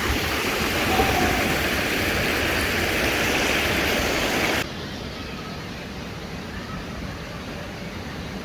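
Rushing stream water, a steady hiss-like rush that drops suddenly to a quieter, duller rush about halfway through.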